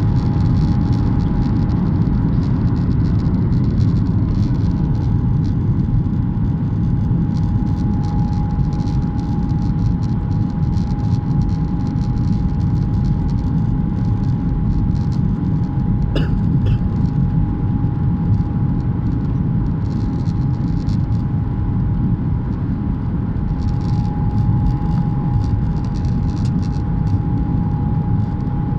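Airliner cabin noise in flight: a steady loud rumble of engines and airflow, with a faint constant tone above it. A short click sounds about halfway through.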